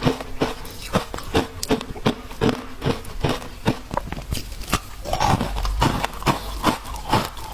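Ice being chewed: crisp crunches in a steady rhythm of about two to three a second, a little hazier and grinding about five seconds in.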